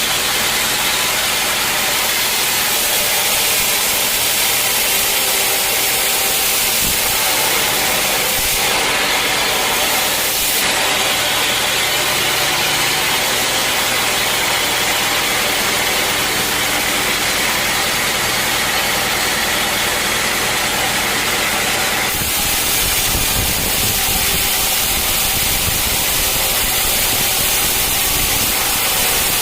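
Sawmill machinery running steadily: an engine hum with a loud, even hiss above it. About two-thirds of the way through, the low rumble turns rougher and choppier.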